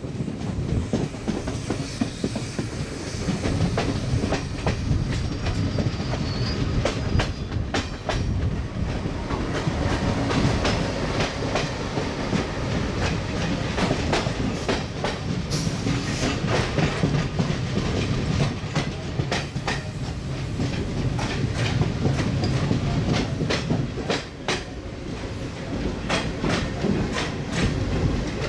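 Train running along the track: a steady low rumble with a continual clickety-clack of wheels over rail joints.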